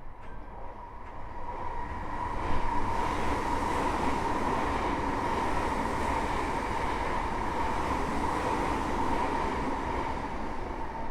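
Running noise of a Tokyo Metro 05 series train heard from inside the car: wheels on rail with a steady whine. It grows louder over the first two or three seconds, then holds steady at speed.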